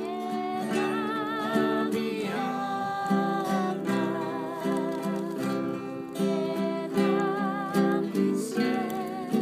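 Acoustic guitar strummed in a steady rhythm, with a voice singing a wavering melody over it.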